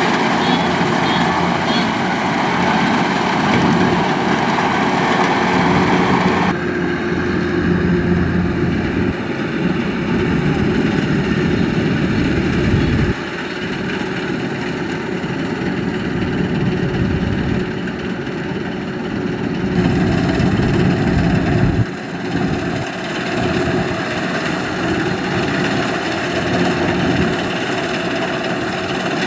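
Kubota DC-93 combine harvester's four-cylinder turbocharged diesel engine running steadily. The sound changes abruptly about six, thirteen and twenty-two seconds in.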